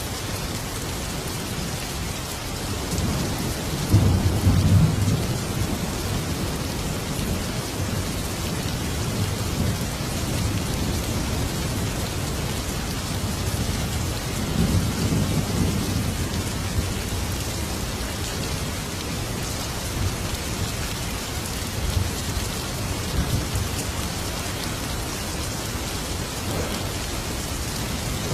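Thunderstorm: steady heavy rain with rolls of thunder, the loudest rumble about four seconds in and another about halfway through.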